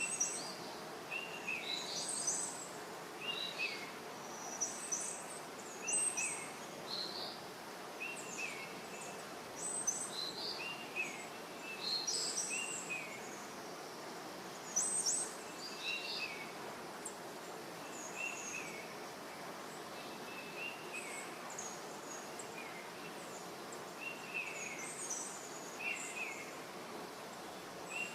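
Birds calling outdoors: short chirps repeated every second or two, some high and some lower, over a faint steady outdoor hiss.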